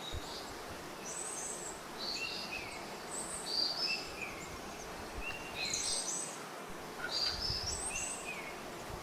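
Birds calling outdoors: short, high, stepped chirps repeated about every second, over a steady background hiss.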